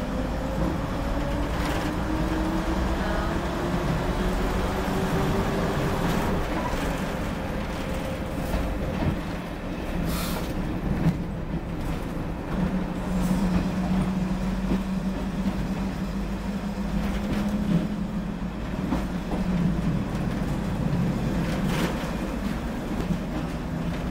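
A train running, heard from on board. A drone rises in pitch over the first few seconds as it gathers speed, then holds steady, with a few sharp clacks from the wheels over the track.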